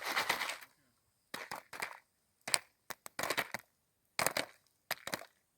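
Popcorn kernels popping inside a Jiffy Pop foil pan over a campfire: sharp pops in short irregular clusters, about eight over a few seconds.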